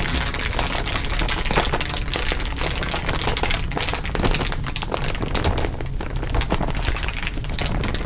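Dense, continuous crinkling of crinkly material, several crinkle recordings layered over one another into a steady crackle.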